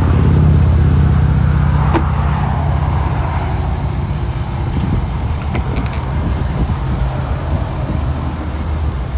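Ford 6.7L Power Stroke V8 turbo diesel idling steadily, with a single sharp click about two seconds in.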